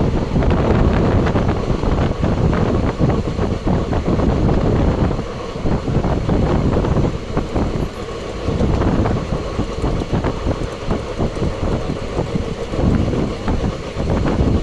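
Train running on rails, its wheels and cars clattering with many quick knocks over a steady rumble, with wind buffeting the microphone.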